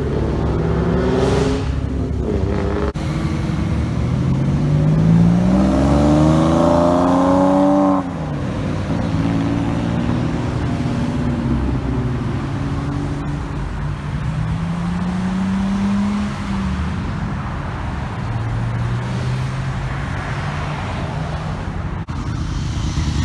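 Car engines accelerating away one after another, each rising in pitch as it revs up; the first cuts off sharply about eight seconds in, and a second climbs from about fourteen seconds.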